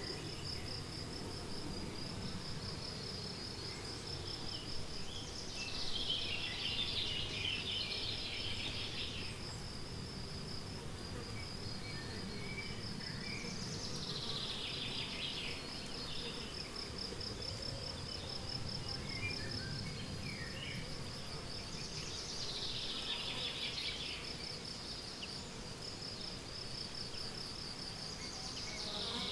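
Crickets trilling steadily in a fast, even pulse. Over the trill, a songbird repeats a descending song phrase of about two to three seconds, four times at intervals of about eight seconds.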